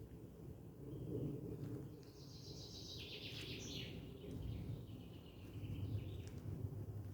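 A songbird sings a rapid high trill from about two seconds in, trailing off into a steadier thinner note, over a constant low outdoor rumble.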